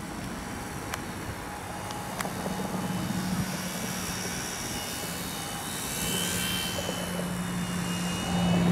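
Bird-shaped model airplane's motor and propeller droning steadily in flight, growing louder near the end as it comes closer.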